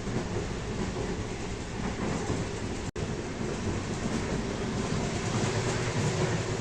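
Iranian sleeper train running on the rails: a steady rumble with rail clatter from the wheels, broken by a split-second gap about three seconds in.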